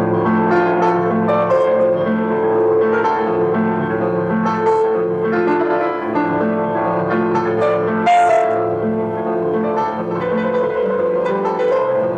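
Piano music: a continuous run of notes over sustained chords.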